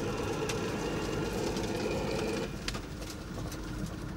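Vehicle engine running, heard from inside the cabin while driving over rough ground, with scattered knocks and rattles. The engine's note drops about two and a half seconds in.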